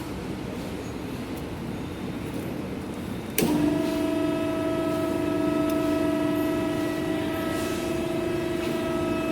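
A 110-ton, 4-metre press brake's motor switches on about three and a half seconds in and runs with a steady, even hum.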